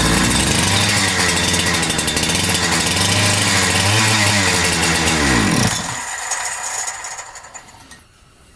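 Holzfforma G372XP two-stroke chainsaw engine running on choke with its speed wavering up and down, then dying about five and a half seconds in and winding down. It runs lean: it won't stay running on its own fuel supply, which points to a fuel or carburettor problem.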